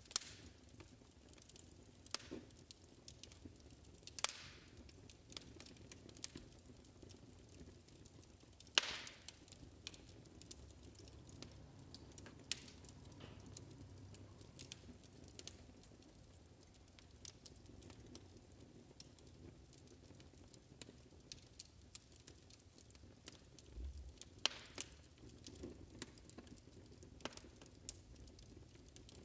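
Wood fire crackling in a fireplace: scattered small pops and a few louder snaps over a low, steady rumble.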